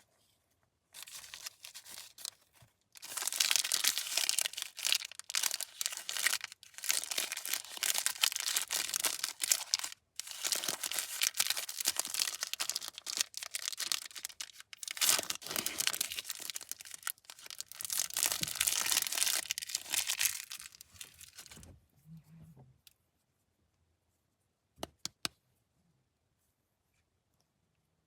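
Candy wrapper being torn open and crinkled by hand: a long stretch of dense crackling and tearing, broken by a short pause partway through. After it stops, two short crackles follow.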